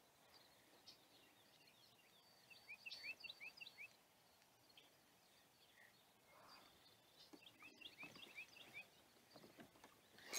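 Faint birdsong: a quick run of short rising chirps about two and a half seconds in, and another near eight seconds.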